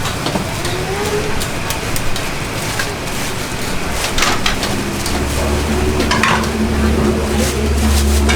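Busy open-air food stall: clattering dishes and utensils over a steady background din, with a low engine hum starting about five seconds in.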